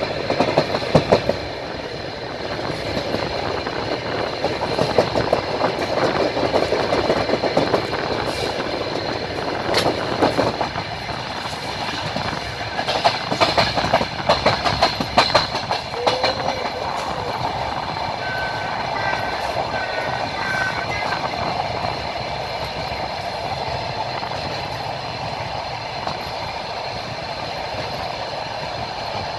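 A train running along the track, heard from on board: a steady rumble of wheels on rail, with the clickety-clack of wheels over rail joints coming in quick runs around the middle.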